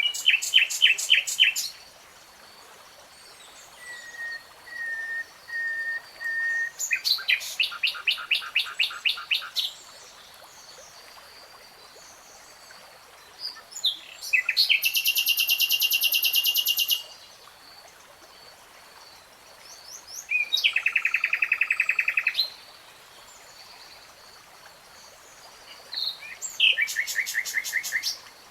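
Nightingale singing: about six short phrases of rapid repeated notes and trills, with pauses of a few seconds between them. One phrase opens with a run of pure whistles that grow louder before breaking into a fast trill.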